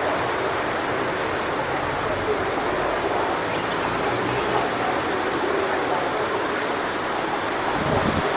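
Strong wind blowing steadily through coconut palm fronds, an even rushing noise that holds level throughout.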